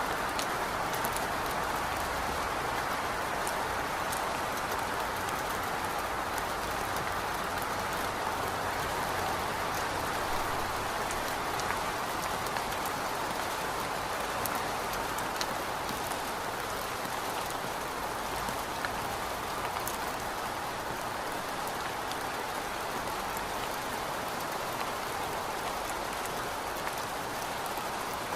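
Steady rain falling, an even hiss of drops with faint scattered individual drop ticks.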